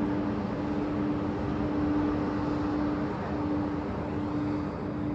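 Steady engine drone over a low rumbling wash, one held hum tone dipping briefly a couple of times.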